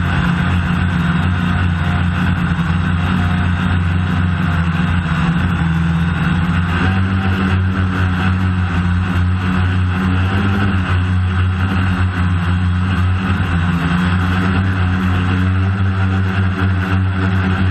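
DJI Phantom quadcopter's motors and propellers droning steadily, with a small shift in pitch about seven seconds in.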